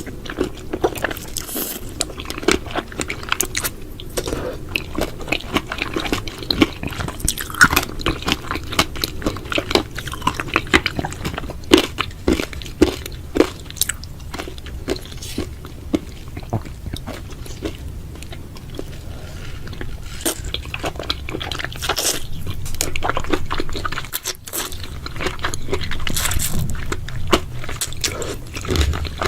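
Close-miked eating: a person biting and chewing crunchy food, with many sharp crunches, turning to softer, steadier chewing in the last third.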